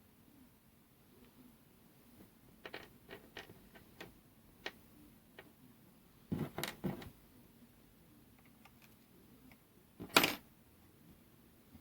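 Small metal parts and hand tools clicking and clinking while a hedge trimmer's gear casing is dismantled: a run of light ticks about three seconds in, a louder cluster of knocks around six to seven seconds, and one sharp clack near the end.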